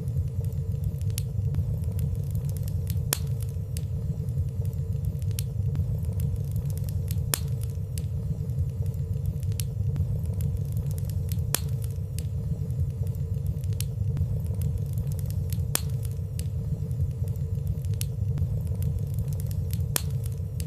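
Wood fire burning in a fireplace: a steady low rumble of flames with soft, scattered crackles every second or two.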